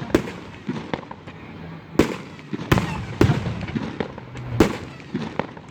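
Aerial fireworks going off: several sharp booms, irregularly spaced about a second apart, with smaller pops and crackling between them.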